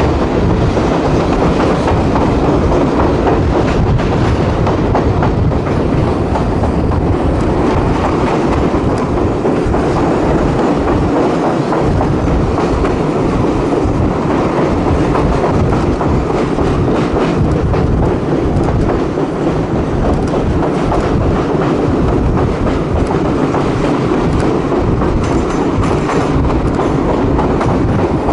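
Railcar riding along the track, heard from on board: steady rumble of the running gear with a clickety-clack of wheels over rail joints.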